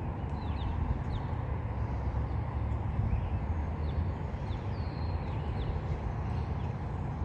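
Outdoor ambience: a steady low rumble, with small birds chirping faintly throughout in short, high, downward-sliding notes.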